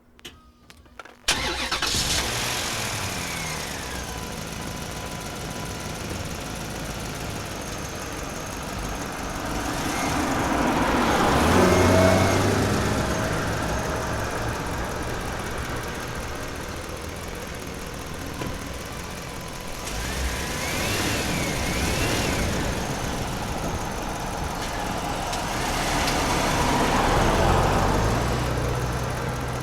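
Vehicle engine noise that starts suddenly about a second in. It runs on with low engine tones and swells louder twice, near the middle and near the end, with a brief wavering high tone in between.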